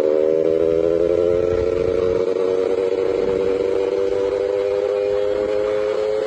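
Yamaha F1ZR two-stroke single-cylinder moped engine running under way, a steady buzzing note that climbs slowly in pitch as the bike pulls.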